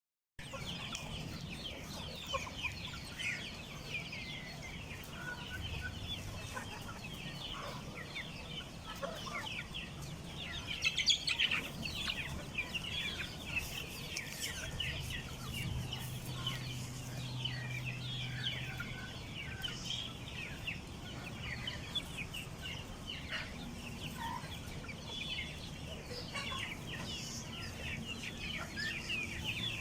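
A hen clucking among her chicks, the chicks peeping constantly in short high calls, with a louder flurry of calls about eleven seconds in.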